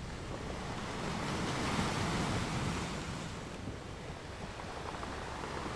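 Ocean surf washing steadily, with wind rumbling on the microphone; the wash swells a little about two seconds in.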